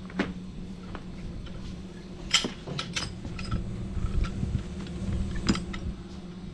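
Metal rigging hardware clinking and clanking as it is handled: a handful of sharp metallic clinks, the loudest about two and a half seconds in and another near five and a half seconds, over a steady low hum.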